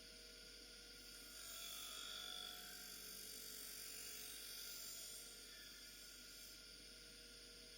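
Bench grinder running faintly with a steady motor hum and whine; from about a second and a half in to about five seconds, a soft hiss rises as something is pressed against the spinning MDF wheel.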